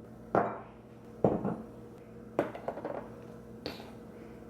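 Condiment jars and bottles being set down one by one on a hard surface: four separate clunks about a second apart, some followed by small clicks and rattles.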